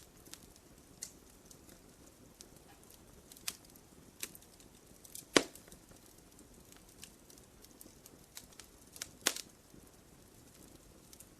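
Wood fire crackling in a fireplace: scattered small snaps over a faint hiss, with two louder pops, one about five seconds in and another about nine seconds in.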